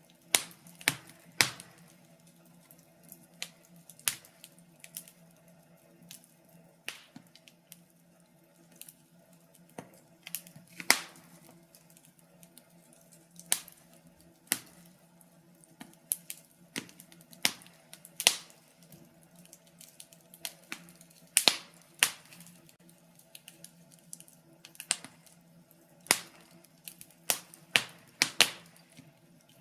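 Fire crackling in a fireplace: irregular sharp pops and snaps, sometimes single and sometimes in quick clusters, over a faint steady low hum.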